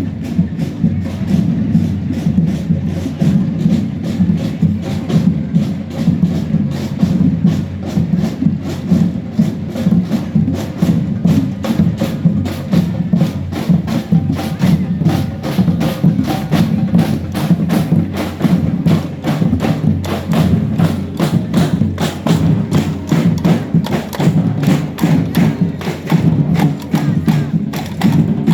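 Parade percussion band playing a fast, steady rhythm: sharp, clicky hits over a full low drum beat.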